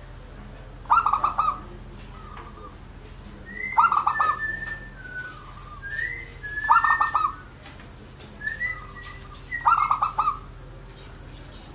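Zebra dove (local perkutut) cooing: four short bursts of rapid, rolling coo notes, about three seconds apart. Between them come thinner, higher whistled notes from another bird. A steady low hum runs underneath.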